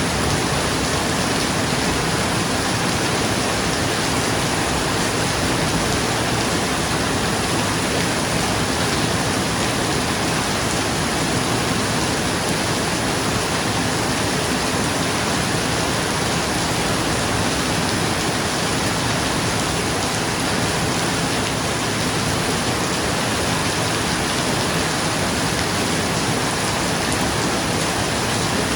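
Steady rain falling on a roof, an even hiss with no let-up.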